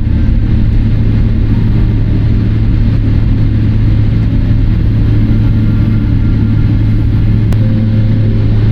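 Steady low drone inside the cabin of a Boeing 777-300ER taxiing after landing, its engines at idle, with an even hum and rumble that does not change.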